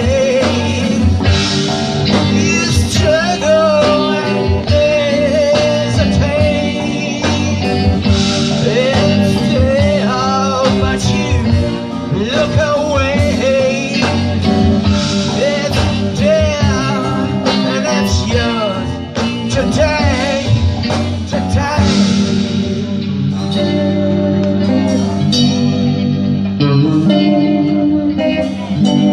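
A live rock band playing an original song: a voice singing over guitar and bass, the singing stopping about two-thirds of the way through while the guitars play on.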